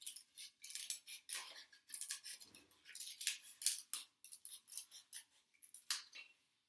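Scissors cutting through a foam plate: a quick, uneven series of crisp snips, about two or three a second.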